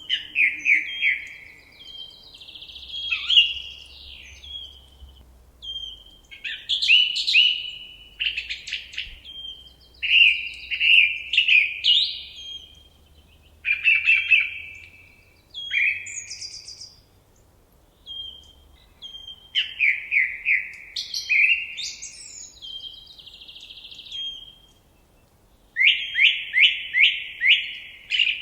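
Songbird singing in the woods: short, varied phrases, many made of rapid runs of quick downward-sweeping notes, with brief pauses between phrases. A fast run of five or six such notes comes near the end.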